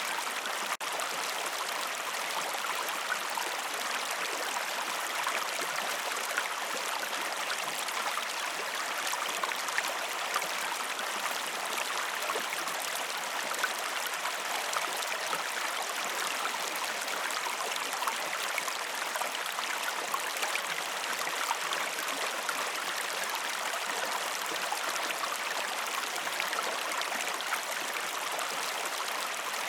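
River water flowing: a steady rushing babble with small splashes all through, broken by a momentary dropout just under a second in.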